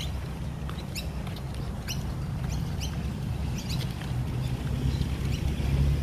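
Short, high bird chirps scattered throughout, over a low rumble of wind on the microphone.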